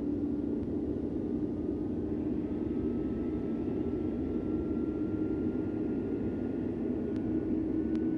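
Antonov An-124's Progress D-18T turbofans during a cold engine start: a steady, loud drone with a faint whine slowly rising in pitch as an engine spools up.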